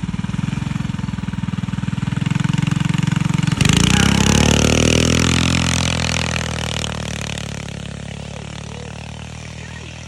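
Coleman mini bike's 460cc big-block engine running with a lumpy, pulsing idle. About three and a half seconds in, the throttle snaps open and the engine revs up hard while the big rear tire spins with a loud rushing noise. The revs then fall away steadily.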